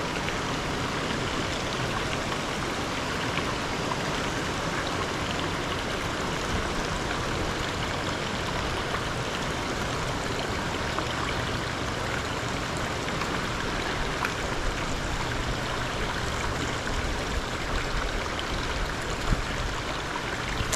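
Small creek running, a steady rush of flowing water.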